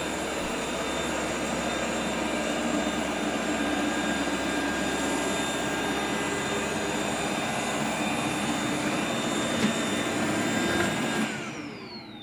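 Shark RV1500ZXUS robot vacuum running, with a steady suction-motor whine and hiss. About eleven seconds in it shuts off, and the whine falls in pitch as the motor spins down.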